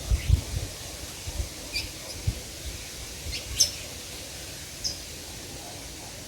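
Small birds giving a few short, high chirps at scattered moments, with a few low knocks in the first half.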